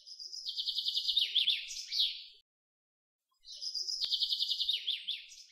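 Bird song: a rapid high trill that ends in a few quick falling notes, each phrase about two and a half seconds long. The phrase plays twice, about a second apart, identical both times.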